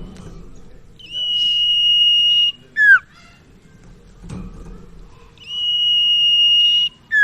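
Sirtu (cipau) bird singing: a long, steady high whistle held for about a second and a half, then a short, sharp downward-slurred note, the phrase given twice.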